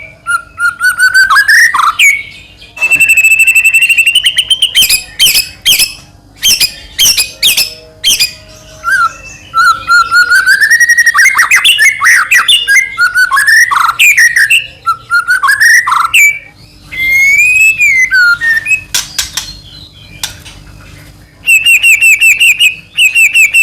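White-rumped shama (murai batu) singing loudly and nonstop, a bird in full song: a varied run of rising and falling whistles broken by fast chattering trills, with a short pause near the end.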